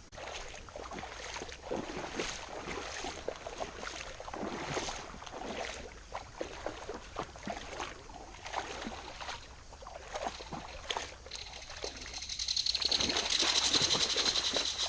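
Irregular splashing and sloshing in shallow creek water, like steps wading through a riffle. From about twelve seconds in, a louder steady rush of water takes over.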